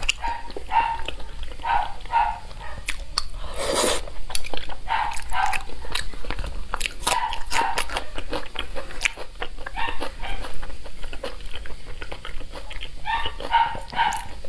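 Close-miked chewing and wet lip-smacking of saucy braised meat: a steady stream of small sticky clicks, with short runs of squeaky high tones several times and a brief loud rush of noise about four seconds in.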